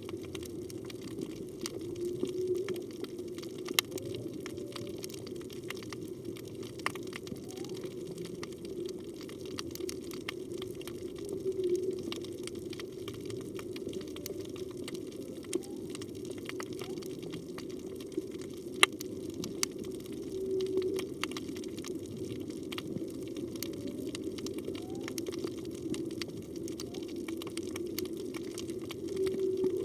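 Underwater reef sound: a steady low hum with sharp clicks scattered throughout. Faint moans and short rising calls of humpback whale song come and go every few seconds.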